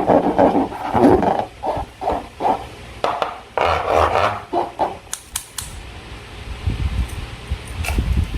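Hand-handling sounds of slime-making: irregular squishing and rubbing, with a few sharp clicks about five seconds in and again near the end.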